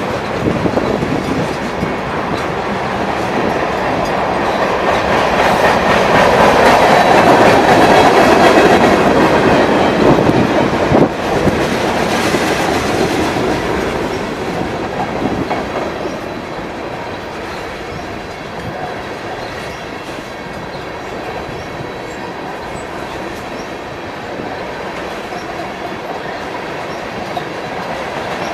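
Freight train cars rolling past at a grade crossing, with a steady rumble and the clickety-clack of wheels over the rails. It swells loudest about a quarter of the way in, then runs on evenly.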